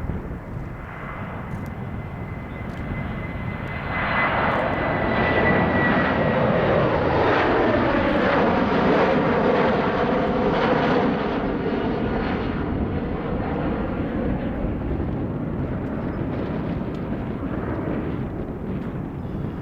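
Boeing 737-700 jet engines at takeoff power. A high whine slides down in pitch in the first few seconds, then the roar swells sharply about four seconds in, peaks for several seconds, and slowly eases off as the jet moves away.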